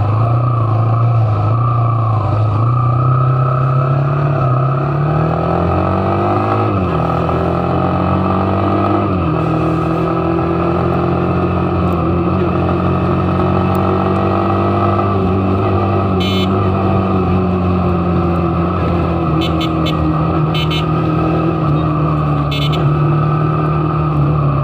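Motorcycle engine running under way: its pitch climbs as it accelerates, drops sharply twice at gear changes, then holds steady at cruising speed and eases off near the end. A few short clicks in the second half.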